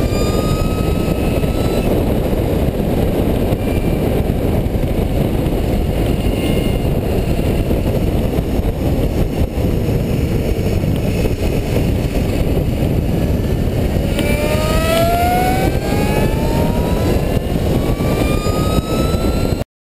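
Heavy wind rush over the microphone at racing speed, with the high whine of the electric bicycle's motor rising steadily in pitch as it accelerates, plainest during the last third. The sound cuts off suddenly at the end.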